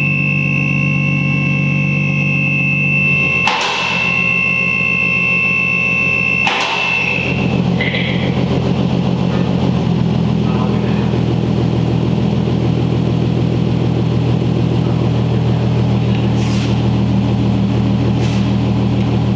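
Infiniti Q50's 3.7-litre VQ37VHR V6 idling steadily through a custom 3-inch stainless single-exit exhaust with a Vibrant resonator and 1060 muffler. Two sharp clicks come about three and a half and six and a half seconds in.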